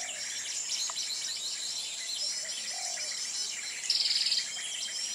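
Small songbirds twittering with rapid high chirps, with a louder short buzzy trill about four seconds in, over a steady high-pitched tone.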